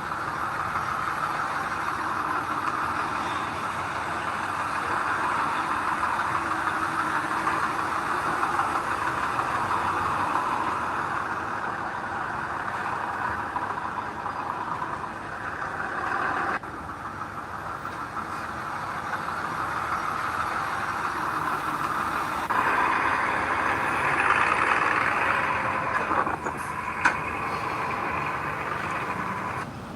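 Heavy earthmoving machinery running steadily, a bulldozer or dump truck engine under work, with the sound changing abruptly a few times as the footage cuts, and one sharp click near the end.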